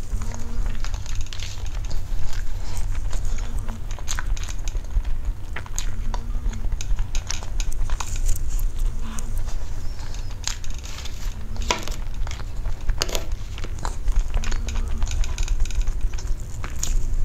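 Close-miked mouth sounds of eating soft sponge cake with cream: wet chewing, smacking and swallowing, with small clicks of a metal fork against the teeth and the plastic tray, over a steady low hum.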